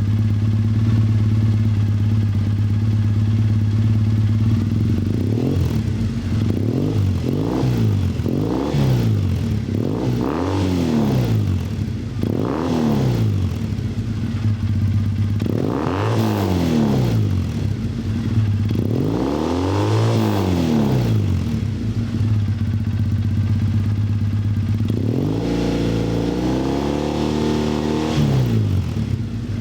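Triumph Bonneville EFI's parallel-twin engine running through an aftermarket Toga classic-style exhaust. It idles steadily for about five seconds, then is blipped about seven times, each rev rising and falling back to idle. Near the end the revs are held up for a few seconds before dropping back.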